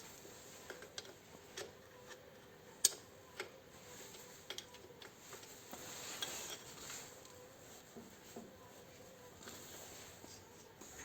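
Scattered light metallic clinks and clicks, one sharper about three seconds in, as tools and small metal parts are handled.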